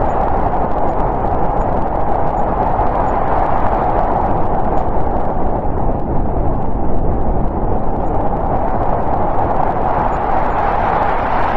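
Snowstorm wind blowing in a steady rush. Its higher hiss eases off in the middle and picks up again near the end, like a gust building.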